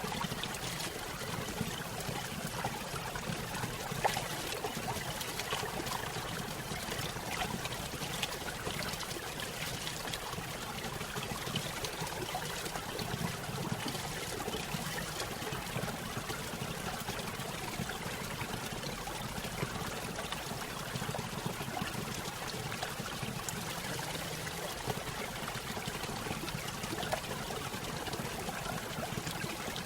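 Small stream spilling over a little waterfall: steady splashing and trickling water, with many small irregular splashes.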